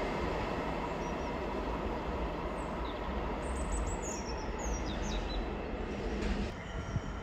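Container freight wagons rolling past on the rails, a steady rumble of wheels and running gear that eases slightly near the end as the train draws away.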